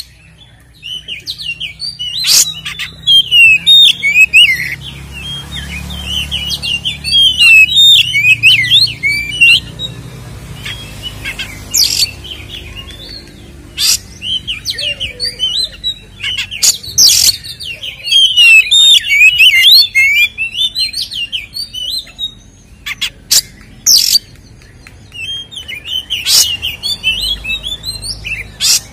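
Oriental magpie-robin singing a loud, fast, varied warbling song, its aggressive fighting song with fill-in phrases, in long bursts broken by short pauses and sharp, loud single notes.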